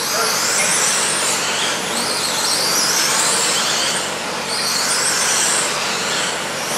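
Radio-controlled racing trucks running laps, their motors whining high and rising and falling as they speed up, slow and pass by.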